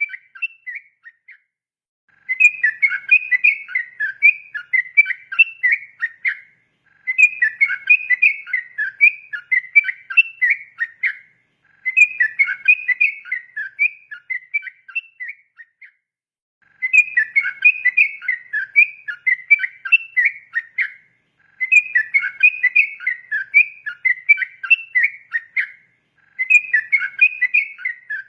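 Yellow-vented bulbul (trucukan) singing its long rolling 'ropel' song: rapid bubbly whistled phrases, in bouts of about four to five seconds with short pauses between them, about six bouts in all.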